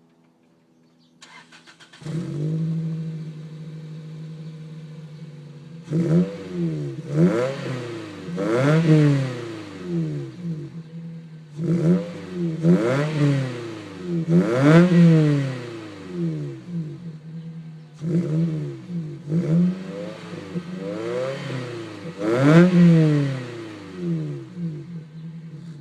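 Toyota Celica GT with a TRD exhaust being started: the starter cranks briefly, the engine catches about two seconds in and idles, then is revved in three sets of quick blips, each rising and falling in pitch. It shuts off near the end.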